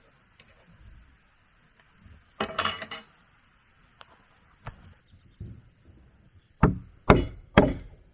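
Tool blows on wood: a short rattle of knocks a couple of seconds in, then three hard strikes about half a second apart near the end.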